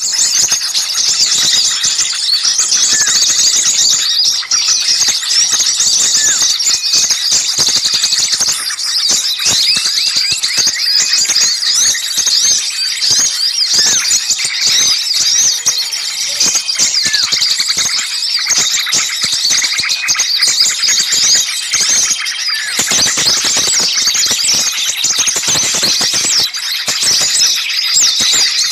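Dense, agitated chattering of many small songbirds: overlapping high-pitched chirps and trills with no pause. This is a bird-trapping lure recording of excited small birds.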